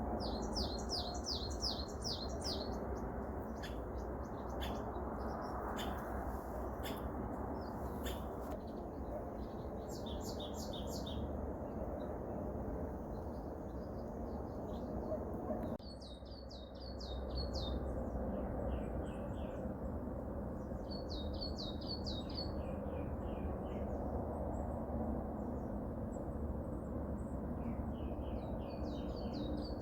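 Wild songbirds singing: short, rapid trills of high repeated notes every few seconds, over a steady low background rush.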